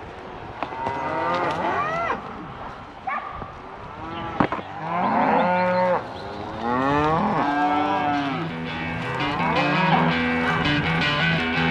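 A herd of cattle mooing, several cows calling over one another in long calls that rise and fall in pitch. The calls are loudest around the middle.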